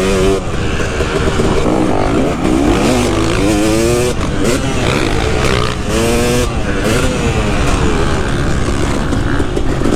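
KTM 250 SX two-stroke motocross bike engine being ridden hard, its pitch repeatedly climbing as the throttle is opened and dropping off again, with sharp revs about four and six seconds in.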